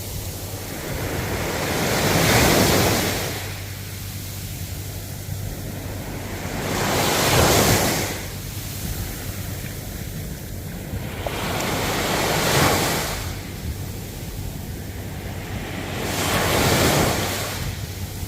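Ocean waves washing in: four waves about five seconds apart, each swelling to a rush of surf and falling away.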